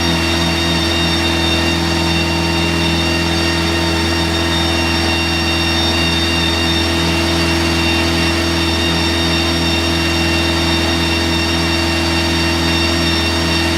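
A car engine running at a steady idle, its pitch and level unchanging throughout.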